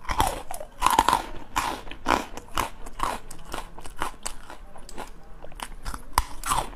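Close-miked crunching bites and chewing of frozen jelly pieces bitten off a wooden skewer: sharp, irregular crackles several times a second.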